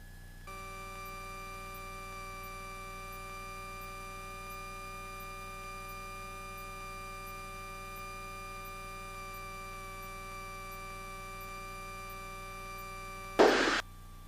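A steady electronic tone with many overtones in the cockpit headset audio, starting abruptly and holding unchanged, then cut off near the end by a short burst of static.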